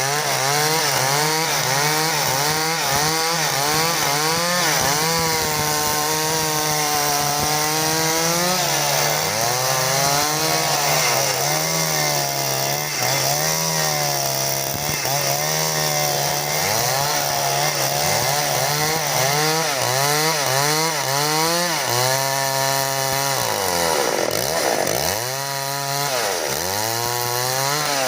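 Two-stroke chainsaw running at high throttle cutting timber, its engine note wavering up and down as the chain bites into the wood. Near the end the revs drop and pick up again a few times.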